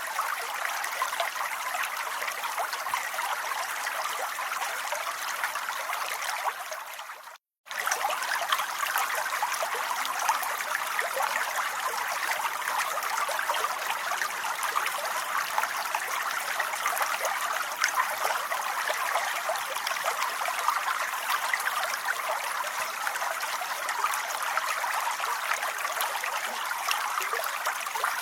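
Steady rain falling. About seven seconds in it fades out and stops for half a second, then resumes at full level.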